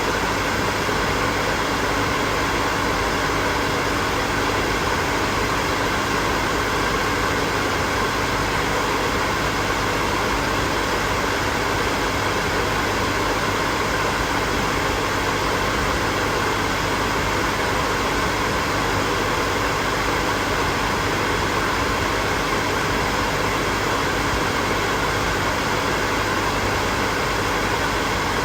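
Hair dryer running steadily: a continuous rush of blown air with a faint steady hum of its motor underneath, unchanging throughout.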